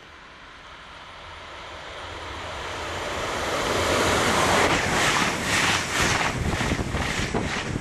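A train approaching and passing close by at speed: a rushing noise that grows steadily louder over about four seconds, then a loud rush with a run of sharp clacks from the wheels as the cars go by.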